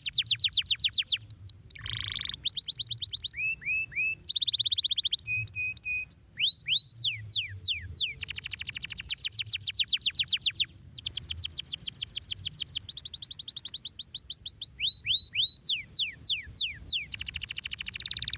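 Domestic canary singing a long, continuous, shrill song: rapid trills of falling whistled notes, many per second, shifting to a new phrase every second or two, with a short buzzy note about two seconds in.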